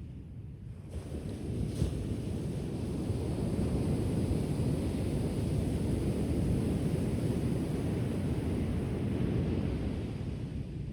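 Ocean waves washing onto the shore: a rushing surge that builds about a second in, holds, and eases off near the end.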